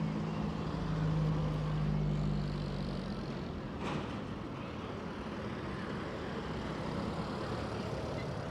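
Street traffic noise, with a motor vehicle's engine humming close by for the first three seconds or so before it fades into the general traffic. A single short knock comes about four seconds in.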